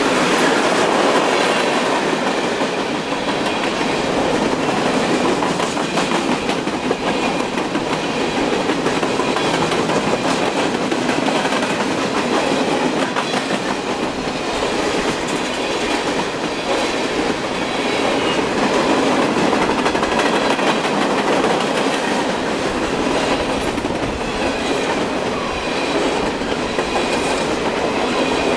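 Freight cars of a BNSF manifest train rolling past at close range: a steady, loud rumble of steel wheels on rail.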